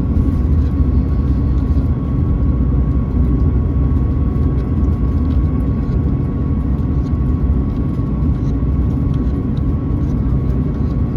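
Steady cabin noise of an Airbus A220-300 on the ground after landing: a low, even rumble from the engines and airframe with a faint steady whine.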